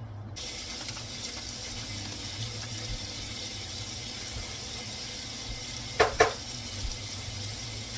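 Sliced sausage sizzling in a hot frying pan, a steady hiss that starts suddenly as the pieces land in the pan. Two sharp knocks about six seconds in.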